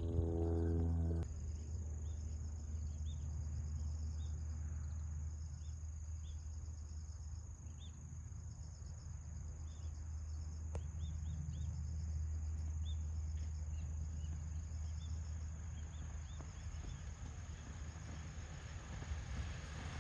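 Insects trilling and chirping in a continuous outdoor chorus, with a steady high pulsing buzz and scattered short chirps over a low rumble. A bit of music stops about a second in.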